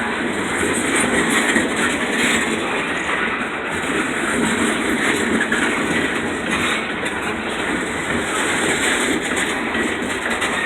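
Freight train cars rolling past, a steady, unbroken rumble and clatter of steel wheels on the rails.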